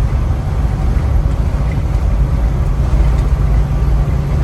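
Strong wind buffeting through a slightly opened semi-truck cab window at highway speed: a loud, steady low rumble over the truck's road noise.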